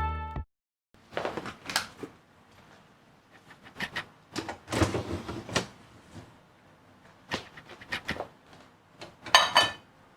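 Background music cuts off, then scattered light knocks, clicks and rustles of household objects being handled, with a louder clatter near the end.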